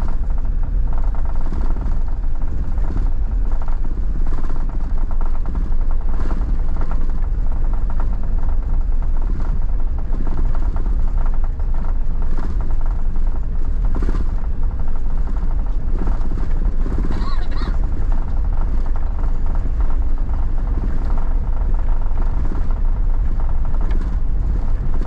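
Car driving along a snowy road: a steady low rumble of engine and tyre noise.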